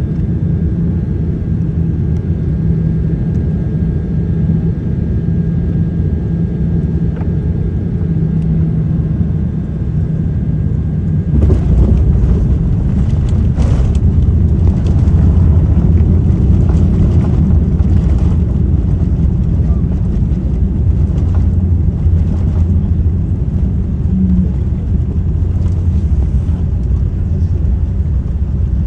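Boeing 787-9 cabin noise during landing: a steady low drone from the engines and airflow. About eleven seconds in, a sudden, louder rumble sets in with repeated jolts, as the wheels touch down and roll along the runway.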